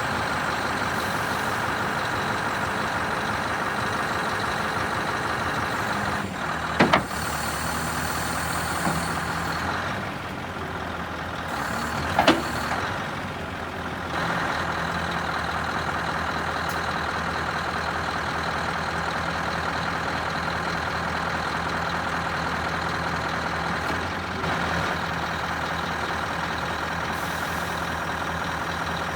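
Scania R560's 16-litre V8 diesel engine running steadily, with two short sharp sounds about 7 and 12 seconds in.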